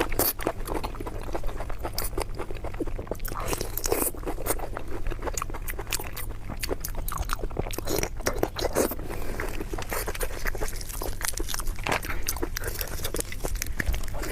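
A person chewing and crunching food close to the microphone: dense, irregular wet clicks and crackles of biting and mastication.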